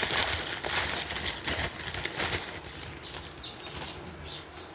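Rustling and handling noise as a paper towel roll is set in place, for about two and a half seconds. Then it goes quieter, with a few faint bird chirps.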